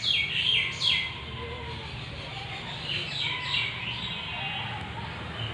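Rose-ringed parakeet giving short, falling screeches in quick runs: about four in the first second, then another few about three seconds in.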